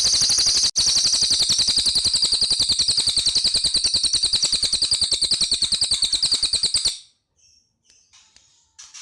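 Cililin bird singing a long, loud, rapid trill of high-pitched notes, about a dozen a second, with a brief break under a second in. The trill stops abruptly about seven seconds in, followed by a few faint chirps.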